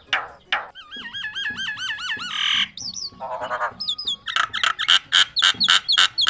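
Myna calling: a string of harsh squawks and quickly wavering whistles, a short rasping burst partway through, then rapid repeated calls.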